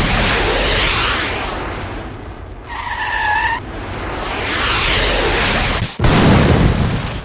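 Layered car sound effect, loud: a rushing, skidding noise that fades and swells again, with a short pitched squeal about three seconds in. It cuts off sharply about six seconds in and restarts with a new loud burst.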